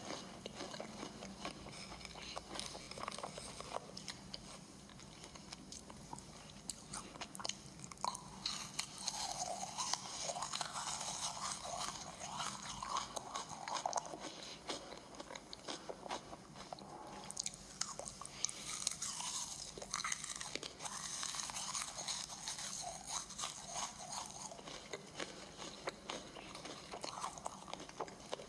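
Crisp meringue cookies being bitten, crunched and chewed close to a microphone in an ASMR eating recording, heard played back through a computer's speaker.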